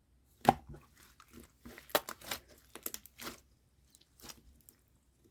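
Pearl-bead slime being squeezed and pressed by hand, giving a run of sharp crunchy clicks and pops, the loudest about half a second in.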